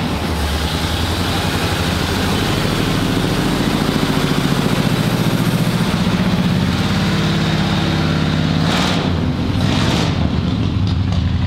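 Carbureted engine of an old Chevrolet running steadily, with a low pulsing exhaust note, just after being jump-started from a dead battery. Its revs swell slightly midway. Two short bursts of noise come near the end.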